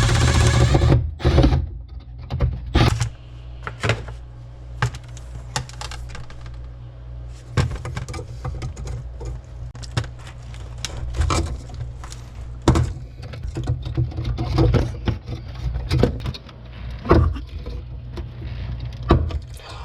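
Scattered clicks, knocks and light metallic rattles of hand tools and electrical box hardware being handled while an old outlet box is worked loose, over a steady low hum.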